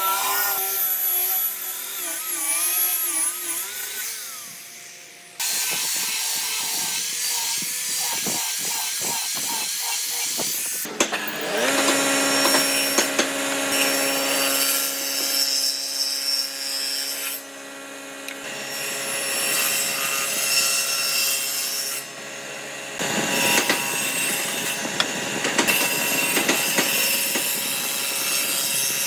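Power tools cutting and working wood, over several abruptly cut shots; in one shot a motor runs with a steady whine.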